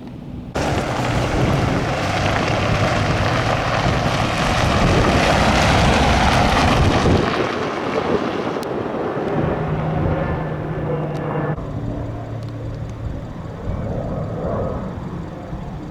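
Fixed-wing aircraft flying low overhead: a loud engine rush that builds to a peak about six seconds in and then fades away.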